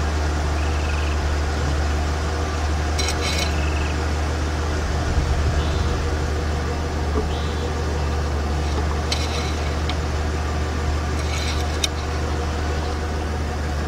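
A vehicle engine idling steadily, with a few brief scraping and clinking sounds over it.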